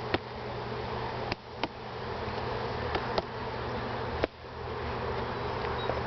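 Honeybees buzzing steadily around an opened beehive, with about five sharp knocks spread through it.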